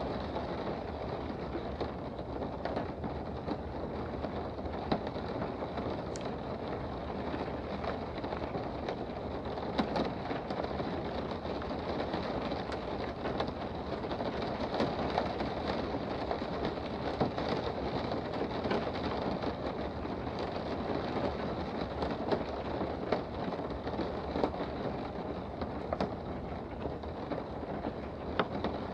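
Steady rain heard from indoors: an even wash of noise with scattered sharper drops tapping out of it.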